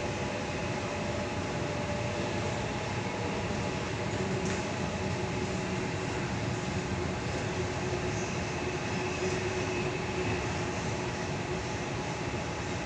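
Steady running noise heard inside a Sydney Trains Tangara carriage at speed, an even rumble with a faint steady whine over it.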